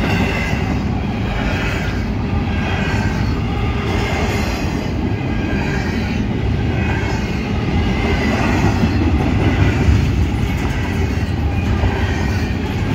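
Double-stack intermodal well cars of a fast freight train rolling past: a loud, steady rumble of steel wheels on rail, with high-pitched wheel squeal that comes and goes.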